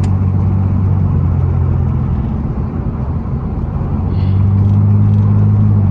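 Muffler-deleted exhaust of a 2002 Pontiac Grand Prix GT's V6 running at a steady low pitch while driving. The note drops back about halfway through, then comes back louder for the last couple of seconds.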